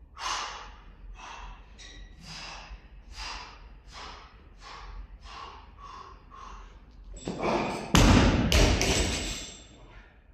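Rapid, heavy breathing, about two breaths a second, from an athlete straining at a maximal lift. About eight seconds in, a loaded barbell comes down with a loud thud and a rattle.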